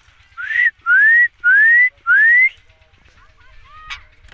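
Ringneck parrot whistling four times in quick succession, each whistle a short clear note that rises in pitch.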